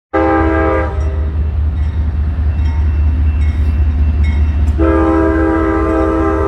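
Diesel freight locomotive's air horn: a short blast right at the start, then a long steady blast beginning near the end, over the constant deep rumble of the diesel engines.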